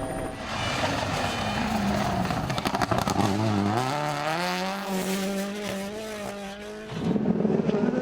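Rally car engine at speed, its pitch falling and climbing again through gear changes and then held high; about seven seconds in it cuts abruptly to another car's engine.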